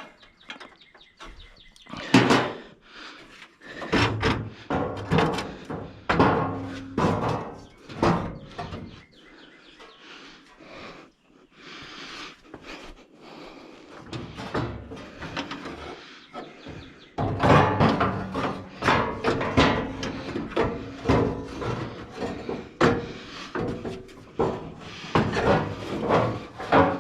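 Irregular clanks and knocks of hand tools and parts being worked loose during turbocharger removal. Music plays along from about two-thirds of the way in.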